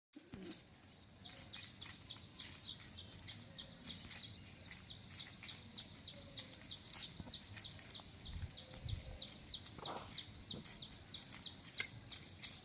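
Birds chirping rapidly, a quick run of high chirps several times a second that keeps going, with a few low thumps around the middle.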